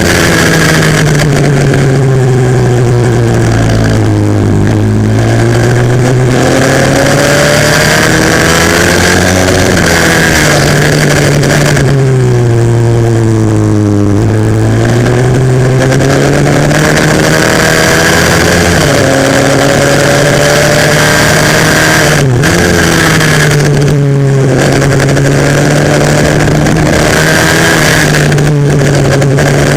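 140cc single-cylinder four-stroke pit bike engine at racing revs, heard onboard, its pitch dropping and climbing again several times as the bike slows for corners and accelerates out of them.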